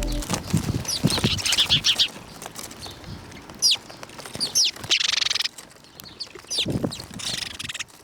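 Small birds chirping in short, quick downward-sweeping notes, with brief bursts of rapid rustling between them.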